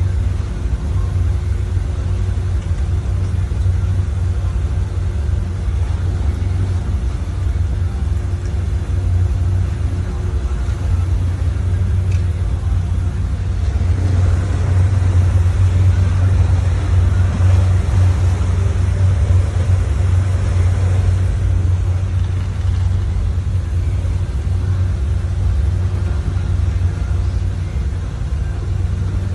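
Motorboat engine running steadily with the boat under way, a low rumble that gets louder and fuller for several seconds about halfway through.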